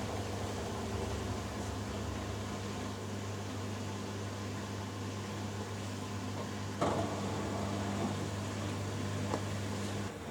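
Hoover Dynamic Next and Beko Pro AquaTech washing machines running their spin cycles: a steady low motor hum with a sharp knock about seven seconds in and lighter clicks after. Part of the hum drops away near the end.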